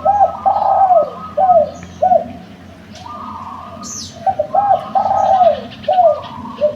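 Derkuku dove cooing its song phrase twice, each a run of about five short coos, the first starting at once and the second about four seconds in. Fainter, higher chirps of small birds sound behind.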